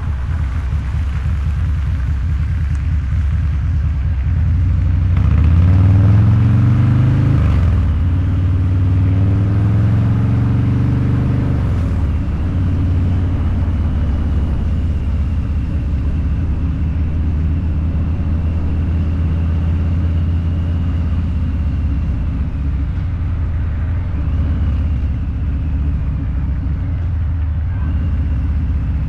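Harley-Davidson Low Rider's 129 cubic inch V-twin running through a Two Brothers Racing exhaust while riding. About five seconds in it accelerates with rising pitch, drops back at a gear change, climbs again, then settles into a steady cruise.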